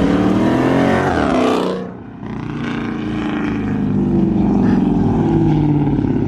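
Car engine accelerating hard, its pitch climbing steeply for nearly two seconds. It drops off briefly about two seconds in, then climbs again more slowly.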